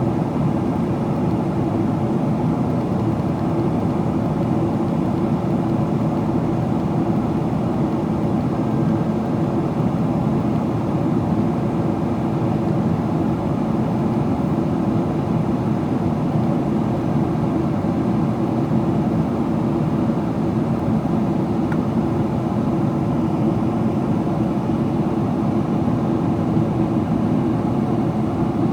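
Steady cabin noise inside a Boeing 777-300ER during its descent: an even rush of air and engine noise at a constant level, with a faint steady hum running through it.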